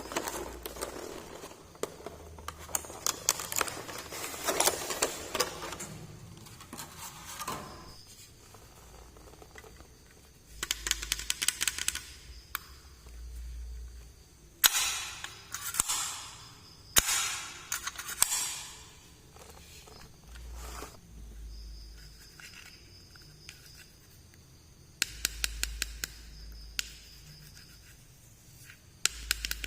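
Handling of plastic packaging from a miniature toy set: crinkling and tearing in several bursts, with runs of small rapid clicks from plastic parts.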